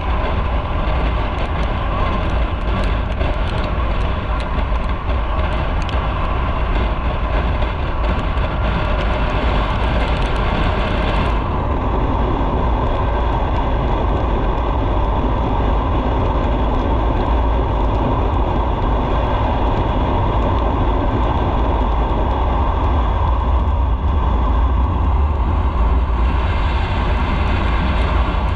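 Motorcycle engine and wind rushing past the microphone while riding, a steady loud rumble under a hiss. The hiss drops away about eleven seconds in and comes back near the end.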